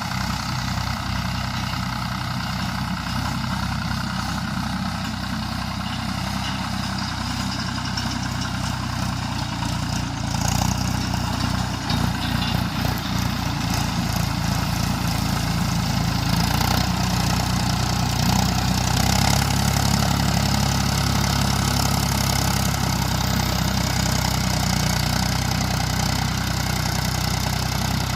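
Mahindra tractor's diesel engine running steadily, growing louder about ten seconds in and again a few seconds later.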